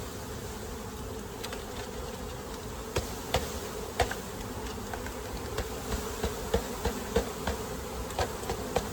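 A mass of package honeybees buzzing in a steady drone just after being poured out into the hive, many of them flying around. From about three seconds in, a run of light, sharp knocks and clicks sounds over the buzz.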